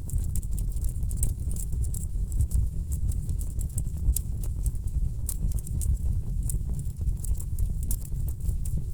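Wood logs burning in a fireplace, crackling: irregular sharp pops and snaps over a steady low rush of the fire.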